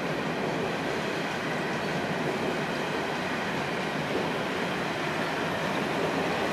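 Coal train's wagons rolling past: steady wheel-on-rail noise.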